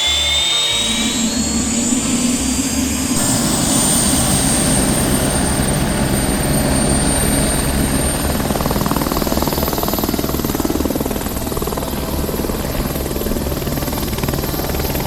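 Electric drill running steadily with a fast buzzing pulse, boring holes in wood for a shelf.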